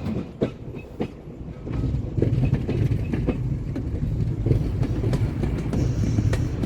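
KTM-23 (71-623-04.01) tram running on its rails: a low rumble with scattered clicks from the wheels over the track. It is softer for about the first two seconds, then louder.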